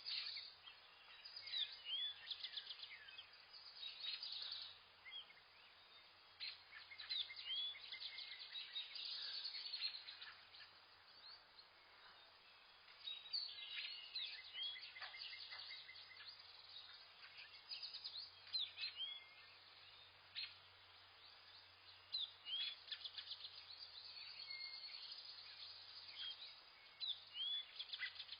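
Wild birds chirping and trilling: many short high notes, quick rising and falling calls and rapid trills that come and go in bouts, over a faint steady low hum.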